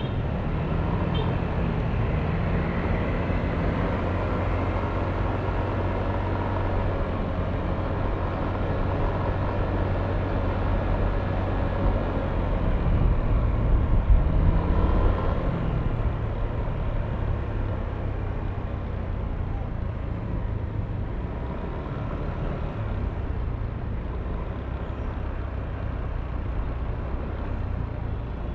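Yamaha Aerox V3 scooter's 155 cc single-cylinder engine running under way in traffic. Its pitch rises and falls with the throttle, and it is loudest about halfway through.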